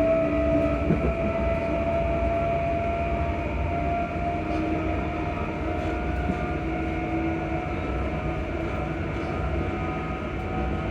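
ScotRail Class 334 electric multiple unit running, its traction motors giving several steady whining tones over the low rumble of the train. The main whine rises slowly in pitch as the train gathers speed.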